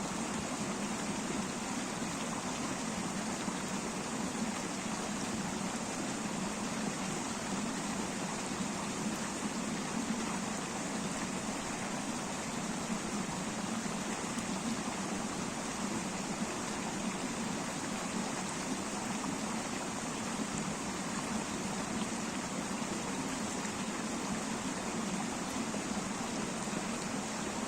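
River water flowing in a steady, unbroken rush, even in level throughout.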